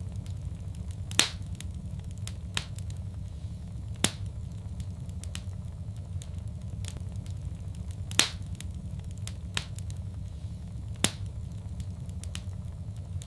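Wood fire crackling in a fireplace: a steady low rumble with scattered small crackles and four louder pops a few seconds apart.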